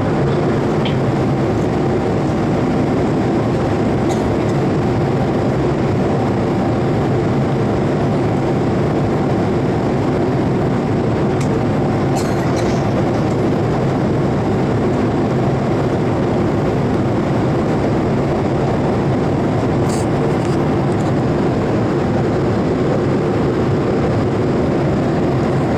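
Steady, unbroken drone of a Boeing 787-8's Rolls-Royce Trent 1000 jet engines and rushing air, heard from inside the cabin in flight, with a few low hums running under it.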